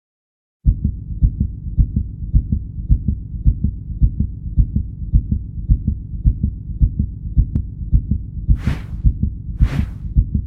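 Steady heartbeat thumping in low, regular beats, starting suddenly just under a second in, with two short whooshes near the end.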